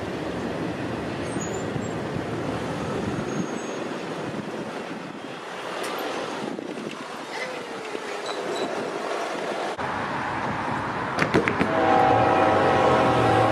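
Train rolling past with a steady rumble of rail noise. A few sharp clicks come about eleven seconds in, then a loud steady chord of several tones starts near the end: a train horn sounding.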